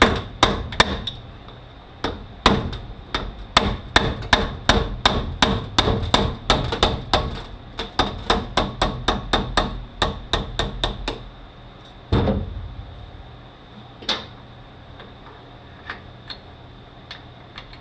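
Hammer blows driving roll pins out of a Mazda six-speed manual transmission, struck in a fast series of about three a second for roughly eleven seconds. One heavier thud follows about twelve seconds in, then a few light clicks.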